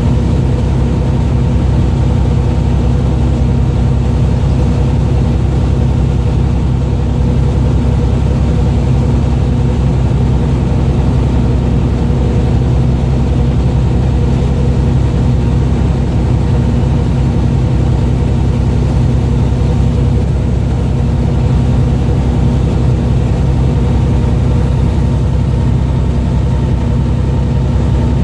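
A fishing boat's engine running steadily: a constant low drone that holds the same pitch throughout.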